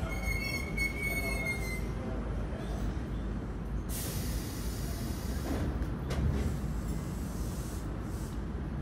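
Keio 7000 series electric commuter train pulling in and stopping at a station platform: a high, steady brake squeal for the first two seconds or so, then a burst of compressed-air hiss about four seconds in, lasting about a second and a half, and a single knock shortly after, over a low rumble.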